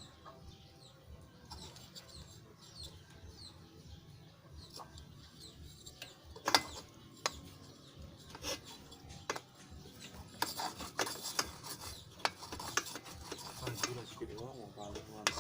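Irregular scraping and rubbing, with scattered sharp metal clicks, from hand work on a two-stroke motorcycle's exhaust silencer being repacked with glass wool. The scraping grows denser in the later part.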